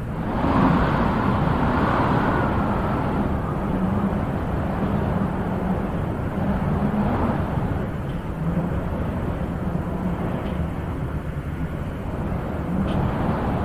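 Wind blowing in gusts, one gust swelling about half a second in and another near the end.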